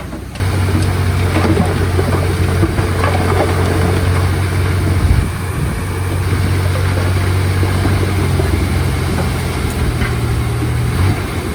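Diesel engine of heavy earthmoving machinery running steadily, starting about half a second in, with a short jump in loudness around five seconds and a slight change in pitch near the end.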